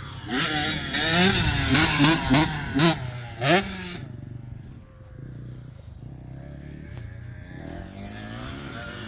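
Dirt bike engine revving up and down in a quick run of throttle surges for about three and a half seconds, then running more quietly.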